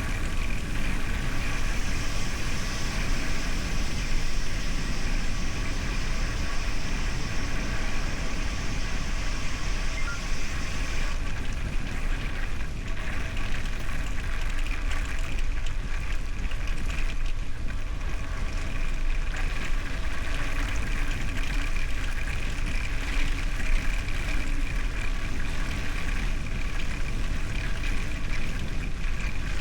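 Steady riding noise from a bicycle in motion, with tyres rolling and a constant low rumble. A higher hiss drops away about a third of the way through.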